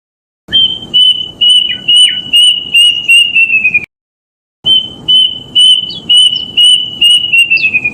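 A kedasih cuckoo (Cacomantis) sings two phrases of repeated clear whistled notes, each about nine or ten notes long. Each phrase ends with its notes coming quicker and dropping slightly in pitch.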